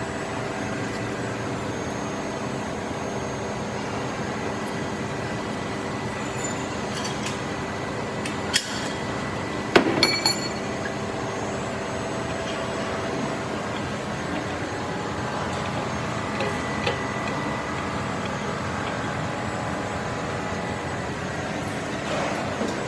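Workshop machinery running with a steady hum, and a few sharp metal clinks and knocks about eight and a half and ten seconds in.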